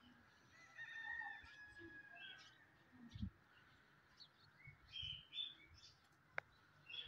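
Faint bird calls: a drawn-out call about a second in, then short high chirps later on. A soft low thump comes about three seconds in and a single sharp click near the end.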